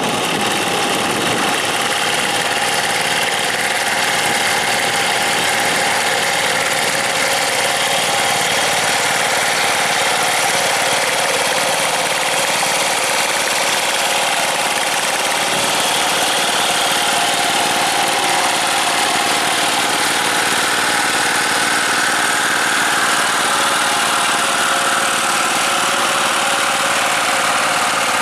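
Tractor's diesel engine running at a steady speed, without change.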